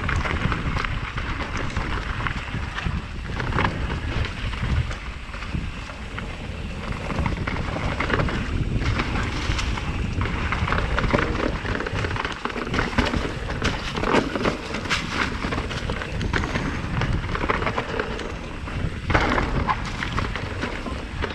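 A 2019 Commencal Meta TR 29 trail bike ridden fast down a rough, rocky trail: a steady rumble from the tyres over rock and dirt, broken by frequent clattering knocks from the bike, with wind buffeting the microphone.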